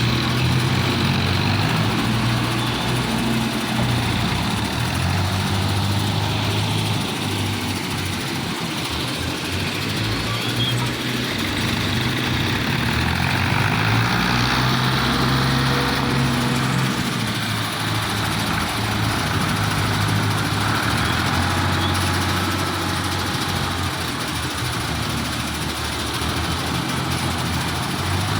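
Tractor engine running steadily, its speed rising and falling slightly now and then.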